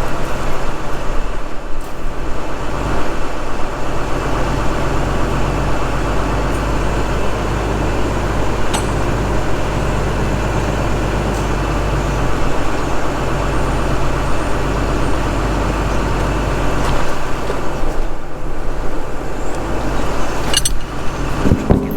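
A large engine or motor running steadily with a low hum, and a few sharp clicks or clanks over it.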